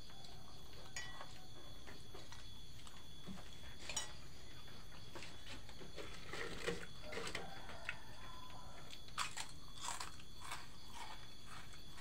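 A person eating fried noodles close to the microphone: chewing with scattered short crunches and clicks, several coming close together from about six to ten seconds in.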